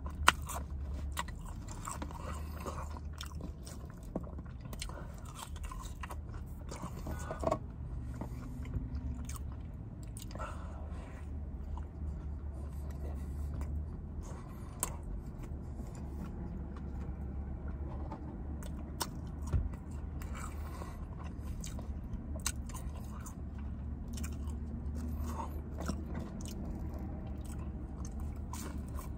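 Close-miked chewing and biting of chicken nuggets and a Big Mac: wet chewing broken by many sharp, crunchy bite clicks, over a low steady hum.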